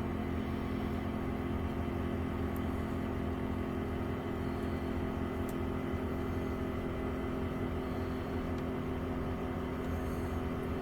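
A steady low mechanical hum with a few fixed tones and an even level throughout.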